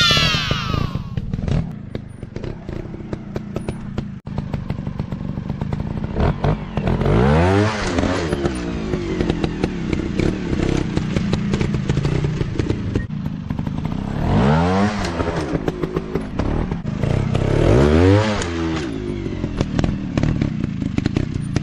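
Dirt bike engines running with a rapid crackling clatter, a falling engine note right at the start, then three short rises and falls of revving, about seven, fourteen and eighteen seconds in.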